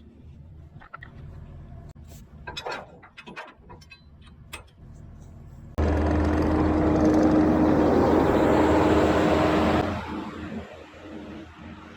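An engine running loudly with a steady hum. It starts abruptly about six seconds in and stops about four seconds later, after a stretch of faint scattered clicks and knocks.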